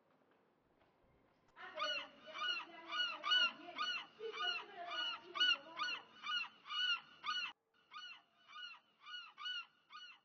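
A fast run of short honking calls, about two to three a second, fuller for the first few seconds and then thinner from about two-thirds of the way through.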